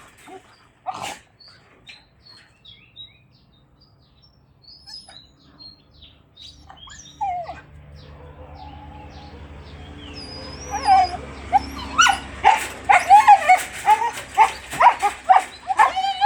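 Dogs whining and yipping excitedly at a family member coming home: faint scattered squeaks at first, building about eleven seconds in to rapid, loud, high-pitched whines with wavering pitch, over a low steady hum.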